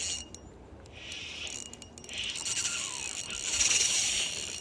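Fishing reel being cranked while a hooked trout is fought in: a few clicks, then a rasping whir that grows louder toward the end.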